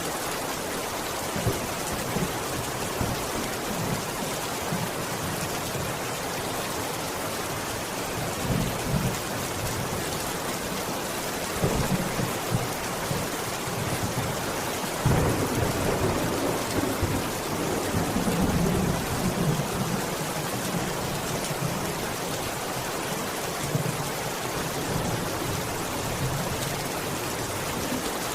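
Steady rain falling, with thunder rumbling low several times; the longest roll swells about halfway through and lasts several seconds.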